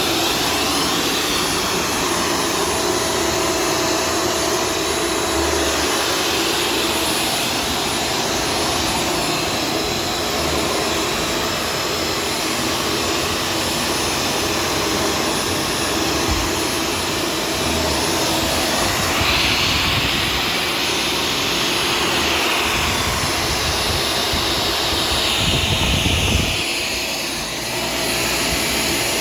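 Shark Stratos vacuum cleaner running steadily, a continuous motor whine and rush of air that brightens briefly a couple of times in the second half and dips a little near the end.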